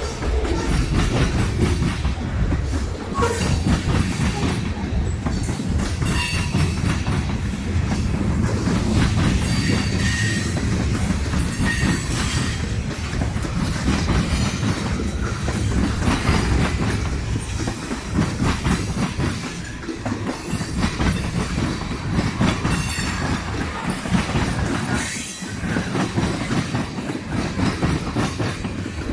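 Train rolling past at close range, steel wheels clacking steadily over rail joints, with a few brief thin wheel squeals.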